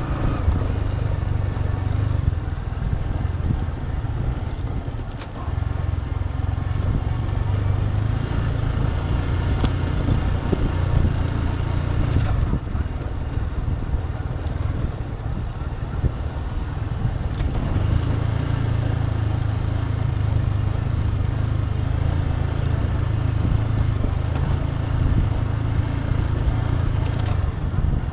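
Motorcycle engine running steadily while riding, its pitch shifting a few times with throttle changes, over a continuous noisy rumble.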